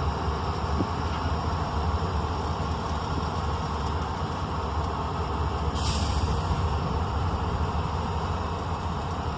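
Diesel freight locomotives running as the train backs up slowly, with a steady low rumble. A short hiss comes about six seconds in.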